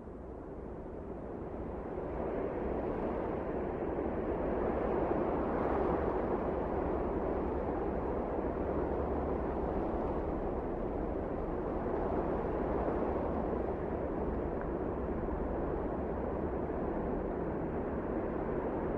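Blizzard wind blowing as a steady rushing noise. It swells over the first few seconds and then holds steady.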